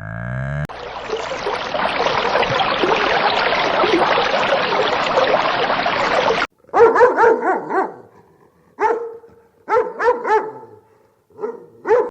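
A dense, noisy din for about six seconds that cuts off abruptly, then a dog barking in short, high-pitched bursts of several barks each, four times.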